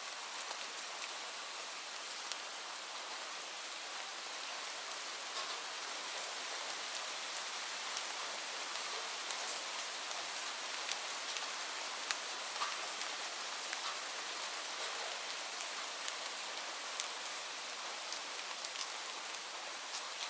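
Steady rain falling on leaves: an even hiss with scattered sharper drop ticks.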